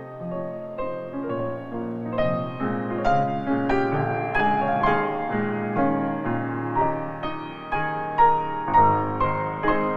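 Background piano music: single notes and chords struck one after another, each fading away.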